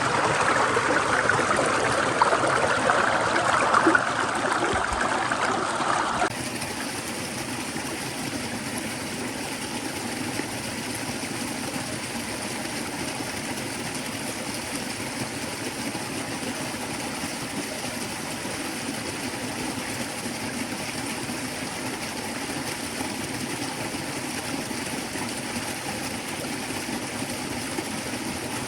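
Stream water running, a steady rushing sound. About six seconds in it cuts abruptly to a quieter, more even rush, as at a change of shot.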